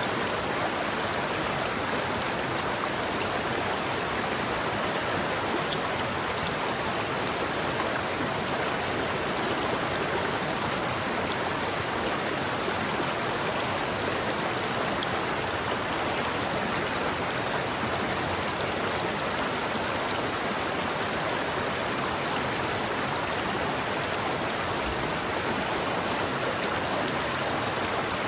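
River water flowing steadily over rocks, a continuous even rush with no change.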